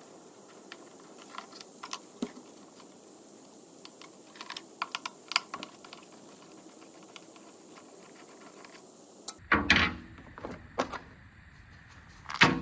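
Scattered light clicks and taps of hand tools, screws and plastic parts as the T27 screws come out and the recoil starter housing is lifted off a Stihl BR600 backpack blower, with a few louder knocks near the end.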